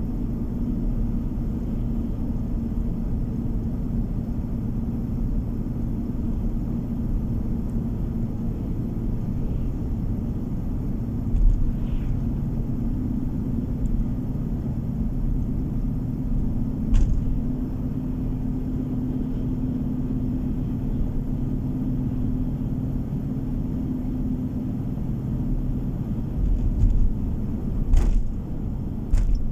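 Car driving along a road, heard from inside the cabin: a steady low rumble of tyres and engine with a held hum. A few short sharp knocks stand out, about a third of the way in, just past halfway, and twice near the end.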